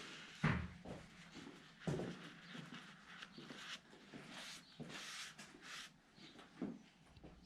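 Tools and parts being handled during mechanical work: two sharp knocks about half a second and two seconds in, then scattered light clicks and rustling.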